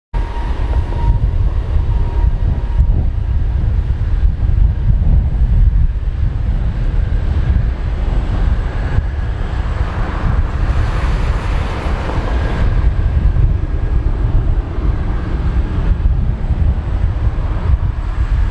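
Jet aircraft engines heard across an airfield as a loud, steady low rumble, swelling about nine to thirteen seconds in.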